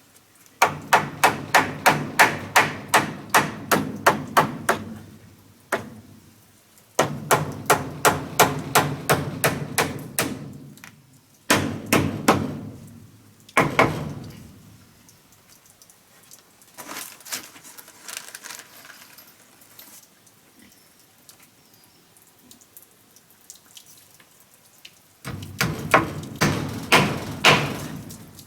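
Rapid blows of a hand tool on wood, about four a second, in several runs of a few seconds each, with pauses between them.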